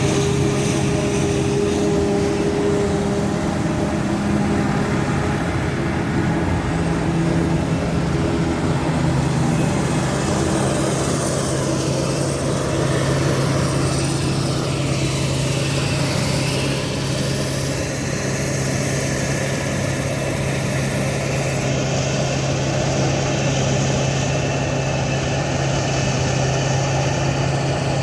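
Engine of heavy farm harvesting machinery running steadily with a constant drone, its tone shifting slightly about a third of the way through.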